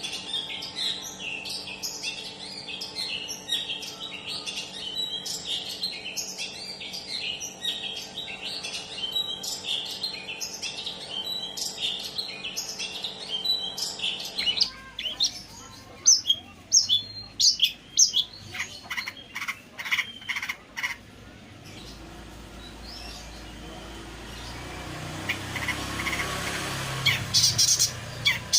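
Long-tailed shrike (pentet) singing a rapid, dense chattering song of high chirps over a steady hum for about the first half, used as a lure call to set off other shrikes. The song then breaks into sparse, sharp separate calls, with a rising rushing noise near the end.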